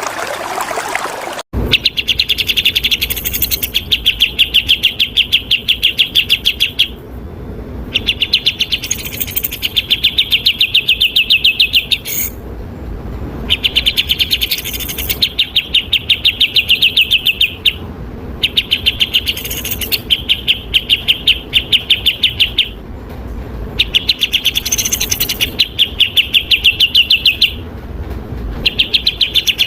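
Bulbul song for bird training: bouts of fast, evenly repeated sharp notes, each run lasting a few seconds, with short pauses between. Before it, flowing water cuts off abruptly about a second and a half in.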